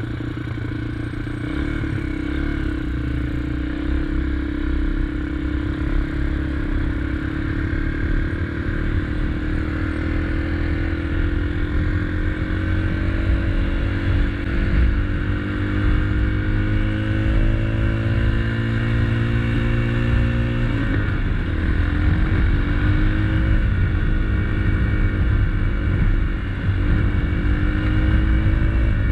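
2021 SSR XF250 motorcycle's single-cylinder engine running under way. Its pitch climbs slowly for about twenty seconds as the bike picks up speed, drops sharply at a gear change, then climbs again.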